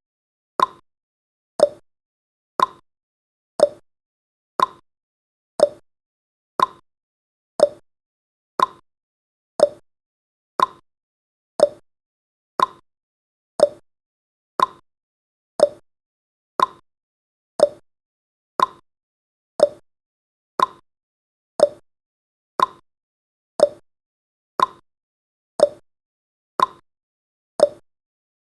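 Countdown timer's ticking sound effect: a sharp, clock-like tick once every second, steady and evenly spaced.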